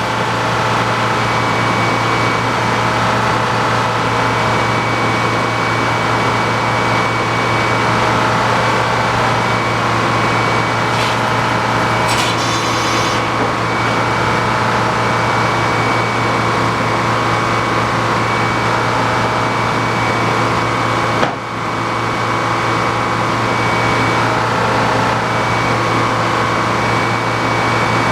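Sawmill running steadily under power while sawing a poplar log, an even machine hum throughout, with one brief dip in the sound about three-quarters of the way through.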